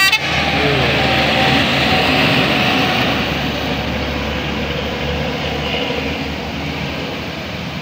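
A heavy vehicle, a bus or truck, going by with steady engine and tyre noise that swells and then slowly fades. A sharp knock comes right at the start.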